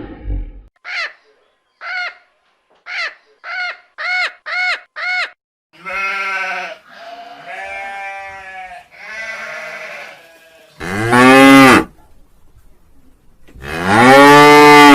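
Farm animals calling one after another: a run of seven short, high calls that come faster and faster, then three longer wavering sheep bleats. Near the end a cow moos twice, long and low; these are the loudest sounds.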